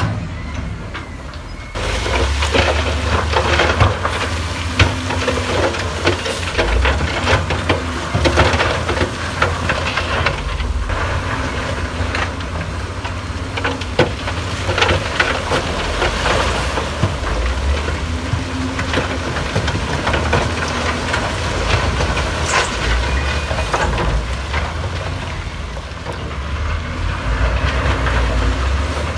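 Heavy earthmoving machinery at work: a diesel engine rumbling and swelling under load, with frequent metallic clanks and rattles. The engine eases briefly about a second in, then picks up again.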